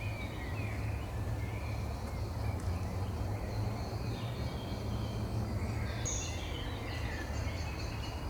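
Forest ambience: scattered faint bird chirps and calls over a steady low rumble, with one brief high chirp about six seconds in.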